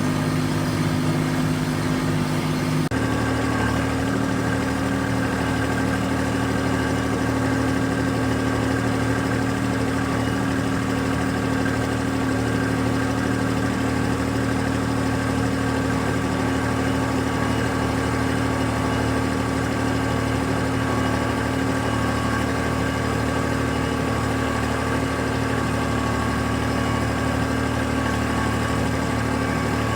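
An engine running steadily at a constant speed, its sound changing abruptly about three seconds in and then holding steady.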